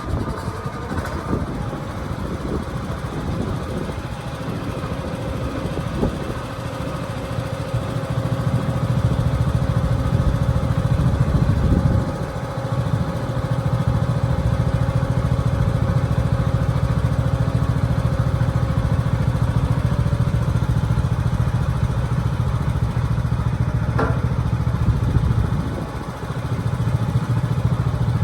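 An engine running steadily under varying load. It gets louder about eight seconds in and drops back briefly twice, with a short rising squeak near the end.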